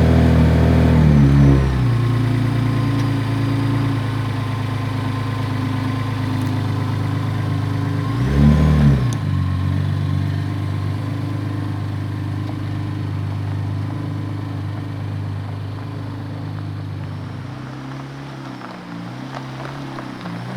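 Pickup truck engine running steadily, its pitch dropping once early and then rising and falling in a brief rev about eight seconds in. It grows quieter toward the end.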